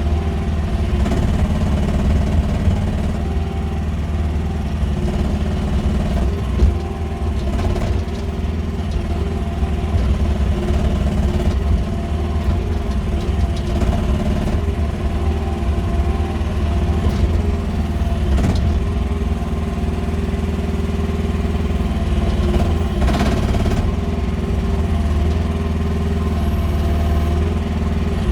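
Small Chinese mini excavator engine running steadily, with a few knocks or clanks over it.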